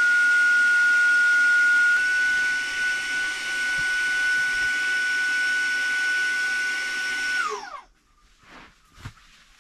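Electric air pump running with a steady high whine, then switched off about seven and a half seconds in, its pitch falling quickly as the motor spins down.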